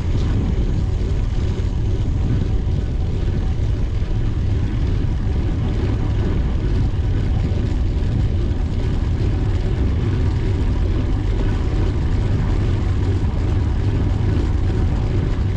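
Steady rush of wind on the microphone of a camera riding along on a bicycle, strongest in the low rumble, with no breaks.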